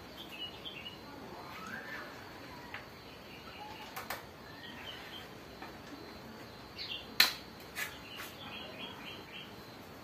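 Caged songbirds chirping in short, high bursts now and then, with a few sharp clicks in between, the loudest about seven seconds in.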